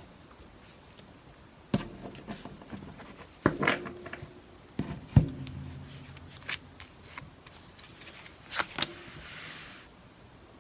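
Tarot cards being handled and set down: a series of separate taps and knocks, and a brief rustling near the end.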